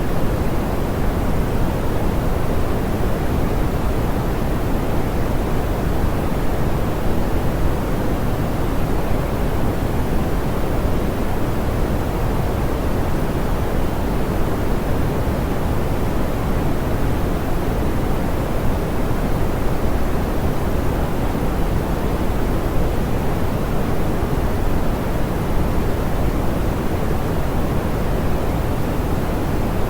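Steady, soft pink noise: an even hiss weighted toward the low end, with the highs rolled off, unchanging throughout.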